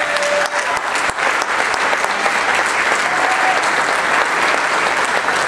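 Wedding guests applauding, a steady round of clapping with a brief cheer or voice over it near the start.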